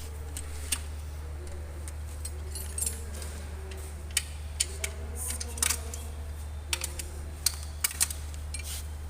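Irregular metallic clicks and clinks of hand tools, a socket wrench and sockets, working bolts loose on an engine, over a steady low hum.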